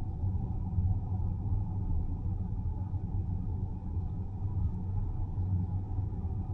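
Car driving along a road: a steady low rumble of tyres and running gear.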